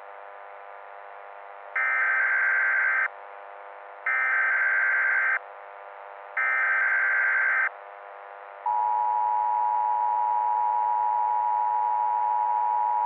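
Emergency Alert System alert tones: three identical short, shrill data bursts (the SAME header), each a little over a second long and about a second apart, then the steady attention tone starting about two-thirds of the way through and holding. A constant hiss runs underneath throughout.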